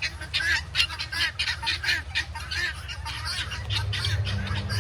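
Guinea fowl calling in quick, repeated short notes, several a second, with a low steady hum coming up near the end.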